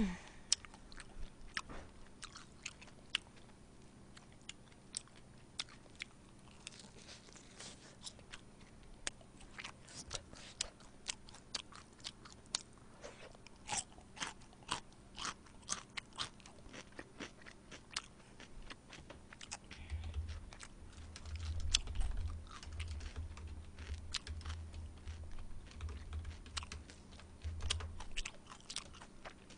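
Close-miked chewing and crunching of crispy fried soy sauce chicken eaten by hand, with many sharp crackles of the fried coating. Low dull thuds come in the second half.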